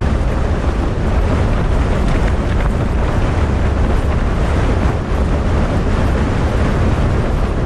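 Gale-force wind, about 40 mph, battering a Hilleberg Soulo tent: a constant deep roar with the fabric rattling and heavy wind noise on the microphone.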